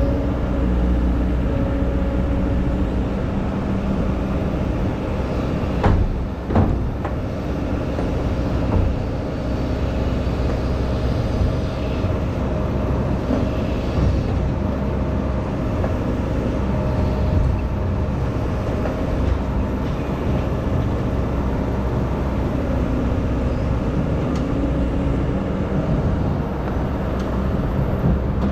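Excavator's diesel engine running steadily, with two sharp knocks about six seconds in.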